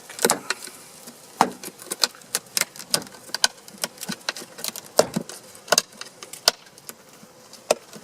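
Honey bees buzzing around an open hive, with frequent irregular sharp clicks and knocks throughout.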